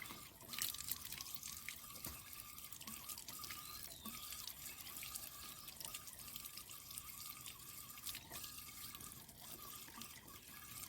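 Water trickling and dripping as a water-tank filter is rinsed by hand, with small splashes and clicks.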